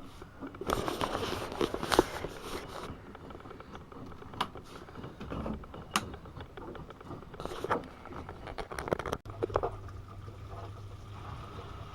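AEG Öko-Lavamat 72520 front-loading washing machine tumbling its wash, with water sloshing in the drum and several knocks as the laundry drops. About nine seconds in, a steady low motor hum starts.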